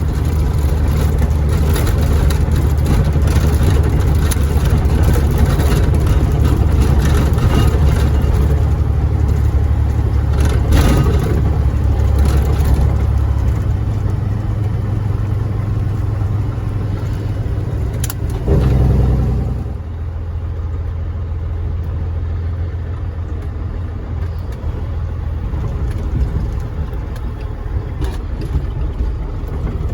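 Caterpillar 3406E diesel engine of a Freightliner FLD120 running steadily with a deep hum. About two-thirds of the way in there is a brief thump, then the sound drops suddenly to a quieter, lower hum.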